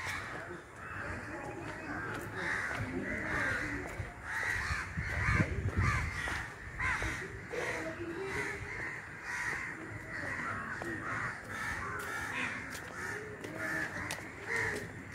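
Birds calling, many short calls one after another, with a low rumble on the microphone about five seconds in.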